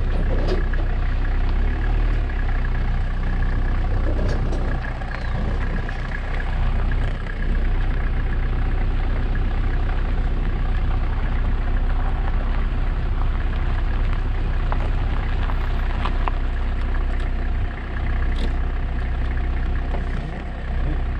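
Car engine running steadily at low speed while the car drives slowly along a dirt track, a low rumble with a few light clicks along the way.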